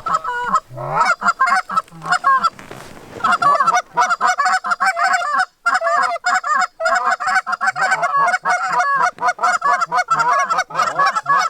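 Rapid, overlapping Canada goose honks and clucks, a dense chatter of calls with a brief pause about halfway through.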